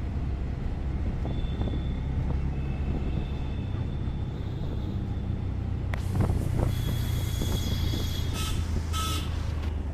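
A road vehicle running along with a steady low rumble, with faint high tones and a few clicks in the second half.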